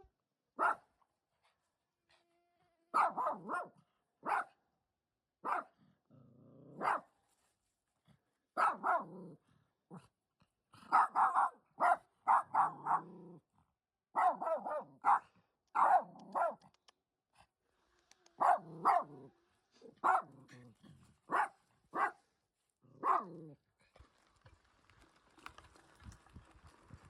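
Dog barking repeatedly, with single barks and quick runs of several barks, stopping about 24 seconds in. A faint rattling noise follows near the end.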